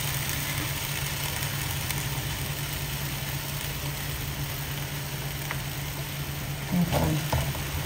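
Beef and water mimosa sizzling in a wok over a steady low hum, with a spatula stirring through the pan now and then.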